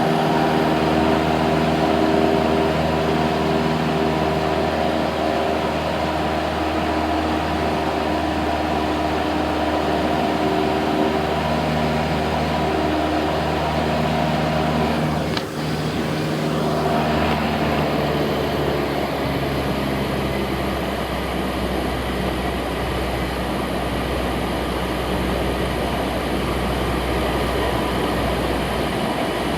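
Cessna 172's single piston engine and propeller droning steadily, heard inside the cabin. About two-thirds of the way in the note shifts lower and deeper.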